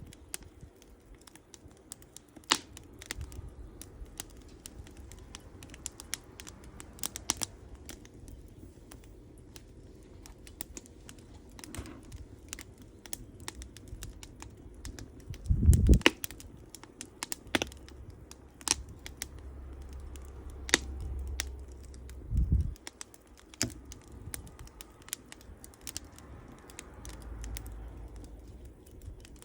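Wood campfire crackling, with scattered irregular pops and snaps from the burning wood. A louder low thump comes about halfway through.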